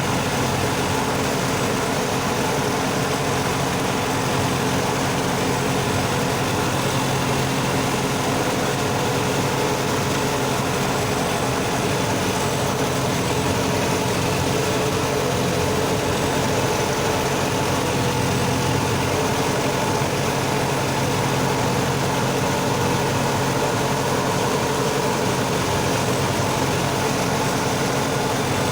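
Sonalika tractor's diesel engine running steadily at an even pitch while it drives a rotavator through deep mud.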